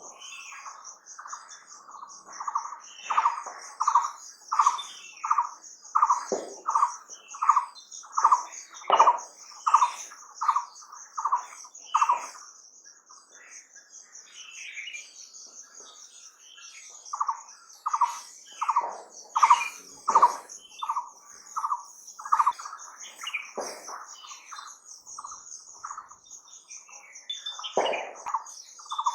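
A bird calling in long runs of evenly repeated notes, about one and a half a second, with a pause of a few seconds midway, over a steady, high-pitched pulsing trill.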